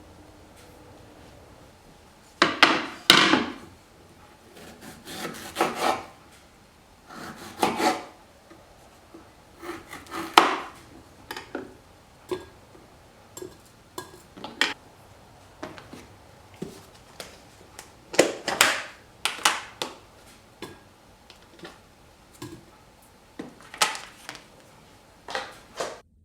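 Irregular groups of short scraping strokes of a kitchen utensil working food on a wooden cutting board, with quiet gaps between the groups.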